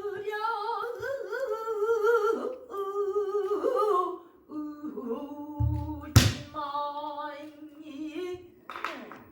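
Female pansori singer holding long, drawn-out notes with a wide, wavering vibrato, sliding between pitches and settling lower about halfway through. A buk barrel drum accompanies her, with a low stroke about five and a half seconds in, a sharp crack on the drum just after, and another low stroke at the very end.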